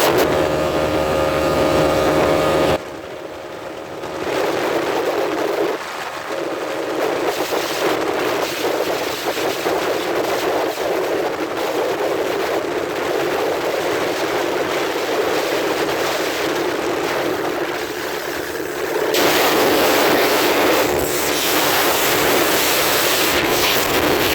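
Single-cylinder 250 cc motorcycle engine running on the move, with heavy wind rushing over the microphone. The engine's steady note is clear for the first few seconds, then wind noise dominates and swells again near the end.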